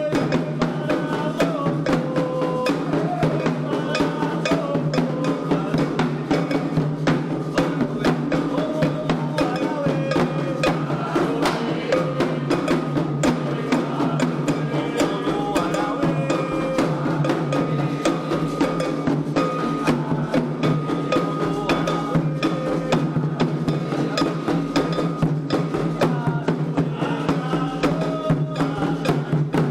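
Candomblé ritual music: atabaque hand drums and a struck percussion pattern keep a fast, steady rhythm while voices sing a chant.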